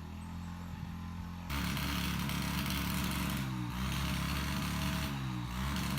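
Small single-cylinder pit-bike engine idling. About a second and a half in it steps up louder, then runs on with slight wavers in pitch as it warms up after stalling.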